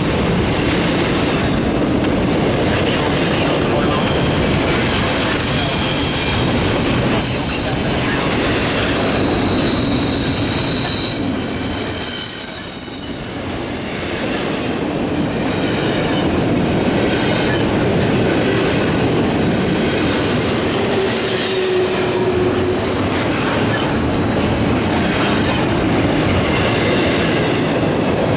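Double-stack intermodal cars of a long freight train rolling past: steady rumble and clatter of steel wheels on rail, with a high wheel squeal that comes in about nine seconds in and fades a few seconds later.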